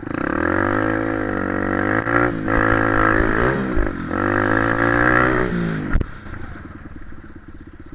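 Dirt bike engine revving under throttle, its pitch rising and falling. About six seconds in there is a sharp knock, after which the engine drops to a low, slow idle.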